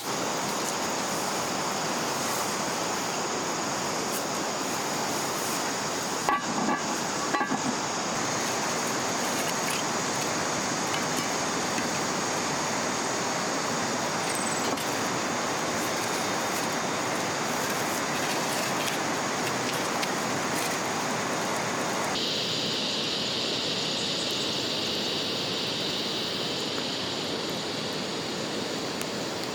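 Steady rushing of flowing river water, with a few small clicks about six to seven seconds in. Some twenty-two seconds in it changes abruptly to a thinner, higher hiss.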